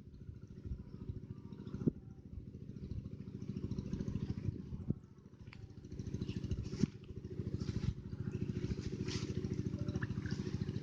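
A small engine running with a rapid, even pulsing beat, dipping briefly about five seconds in, with a few sharp ticks on top.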